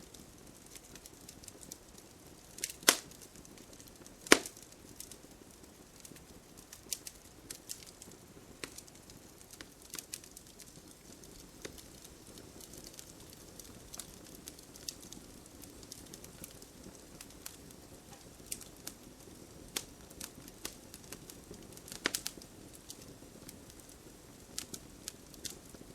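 Wood campfire crackling, with scattered sharp pops over a low steady rush of burning. Two loud pops come about three and four seconds in, and another cluster near the end.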